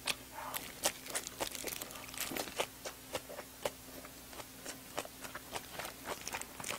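Close-miked chewing of a mouthful of chive kimchi: irregular wet clicks and crunches, several a second.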